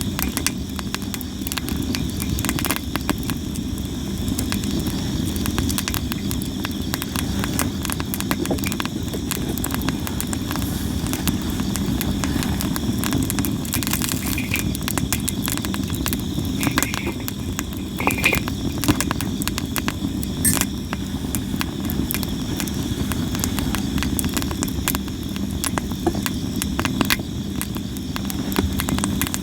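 Sawara (Japanese cypress) firewood burning in a campfire, crackling and popping constantly, with a few sharper pops past the middle, over a steady low rumble. A faint steady insect chirring runs underneath.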